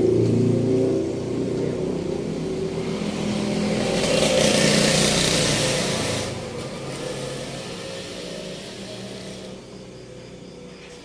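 Truck engine running and revving, with a loud hiss from about three and a half seconds in lasting about two seconds, after which the engine sound fades away.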